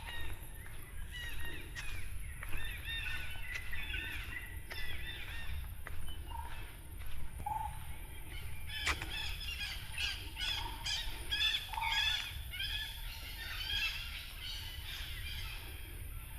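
Several jungle birds calling at once, a busy chatter of short arching notes that grows denser about halfway through, with a lower single note repeating every second or so. A steady low rumble runs underneath.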